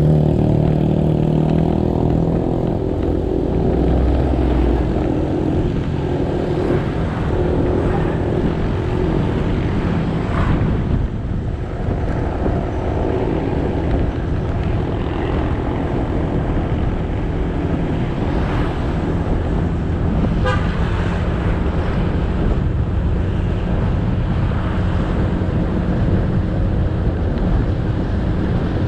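Motorcycle riding along a road: the engine note is clear at first, then mostly a steady rush of road and wind noise. A short vehicle horn toot sounds about two-thirds of the way in.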